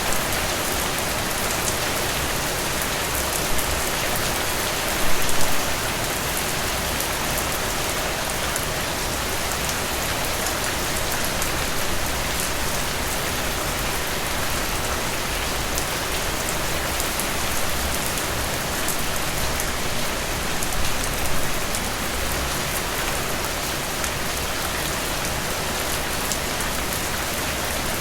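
Heavy rain pouring steadily, a dense hiss full of individual drops pattering on surfaces, with a few brief louder spatters about five seconds in and again near twenty-one seconds.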